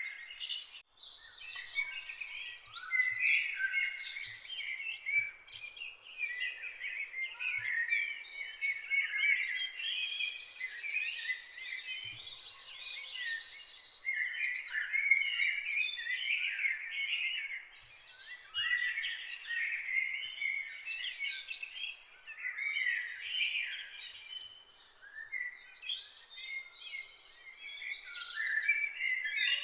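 Many songbirds singing at once, a dense chorus of quick overlapping chirps, whistles and trills with no pause.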